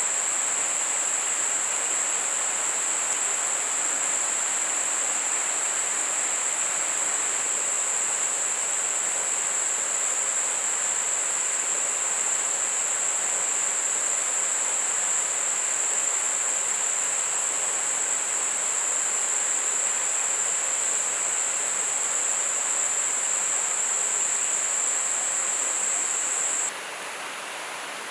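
River water rushing steadily, with a constant high-pitched insect drone over it that cuts off suddenly near the end.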